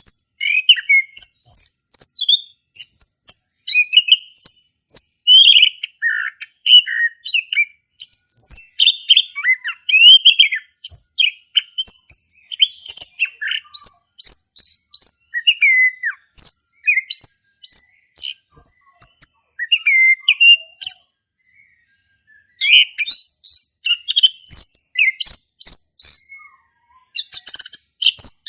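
Male chestnut-capped thrush singing a loud, almost unbroken song of rapid, varied whistles and chirps, with two short pauses in the last third.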